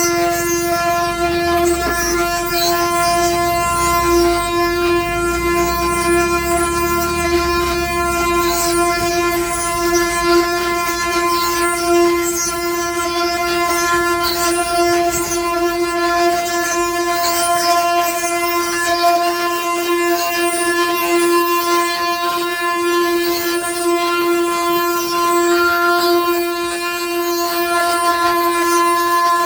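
Ox cart 'singing': the wooden axle turning in its wooden bearings gives a loud, steady, droning tone with many overtones, held without a break. A low rumble sits under it for the first several seconds.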